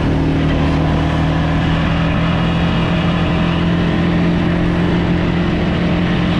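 Motorbike engine running at a steady, even pitch, loud and close.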